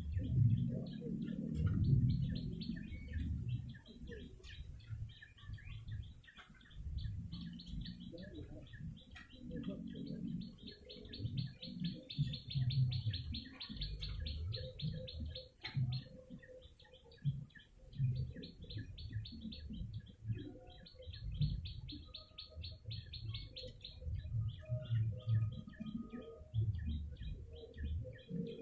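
Small songbird, the prenjak lumut, giving rapid chattering trills, densest in two long runs midway and near the end. Beneath it runs an uneven low rumble.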